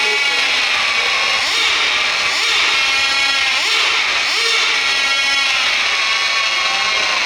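Motors of an RC pulling truck or tractor whining under load, the pitch repeatedly rising and falling as the throttle is worked.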